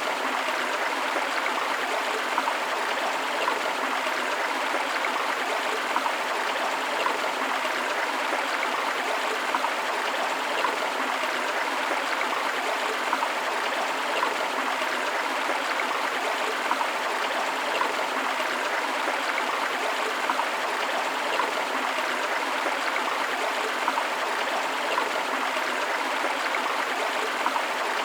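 Forest river water flowing over rocks with a waterfall, a steady rush of water with small splashes and little low rumble.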